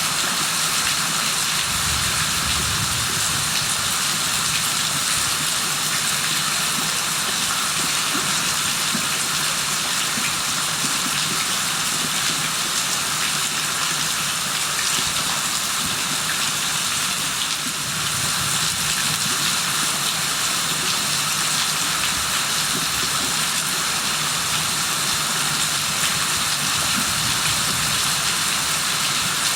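Steady heavy rain: a constant dense hiss of raindrops on surfaces.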